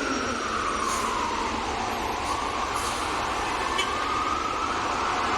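Emergency vehicle siren wailing, its pitch falling slowly for about two seconds and then rising again, over a steady hiss of rain and city traffic.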